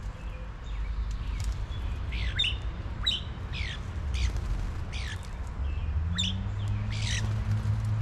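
A songbird singing a run of clear down-slurred whistled notes, about one or two a second. A steady low hum sets in about six seconds in.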